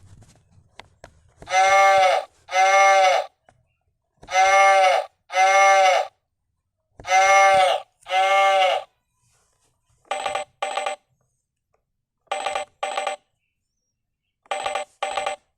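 Recorded sound effects: a sheep bleating in pairs, three times over, followed by a telephone ringing in short double rings, three times.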